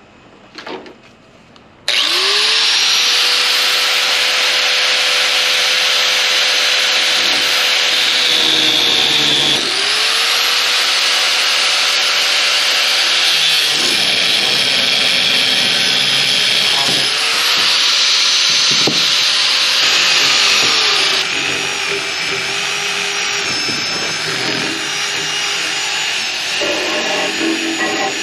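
Handheld electric power tool running in long passes of about four to eight seconds. Its motor tone climbs as it spins up at the start of each pass, under a loud hiss of work on the material.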